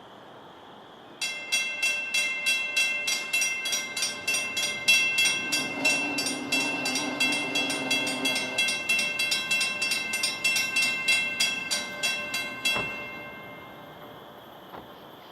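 Railroad crossing bell ringing rapidly and evenly, about three to four strokes a second, then stopping abruptly near the end. A low hum runs underneath for a few seconds in the middle.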